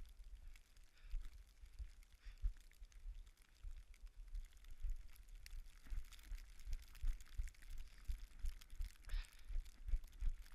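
Running footsteps in snow, a steady thudding about two or three times a second, under a faint hiss of wind on the microphone.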